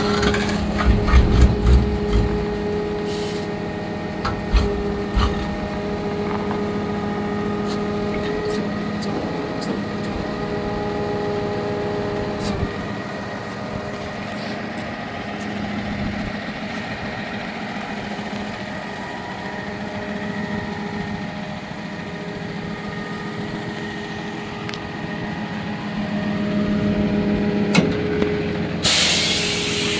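Cummins 6.7-litre straight-six turbo diesel in a Freightliner bucket truck idling steadily, with a few low knocks in the first seconds and a short hiss of air near the end.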